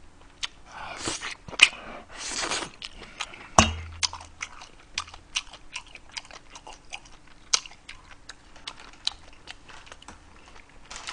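Close-miked chewing and biting: a man eating kimchi-braised beef short ribs, with wet smacks and many small mouth clicks. A sharp knock with a low thud about three and a half seconds in.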